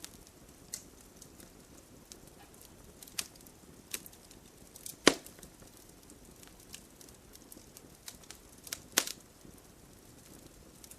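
Wood fire burning in a fireplace: a low steady hiss with scattered sharp crackles and pops from the logs. The loudest pop comes about five seconds in, and another strong one just before nine seconds.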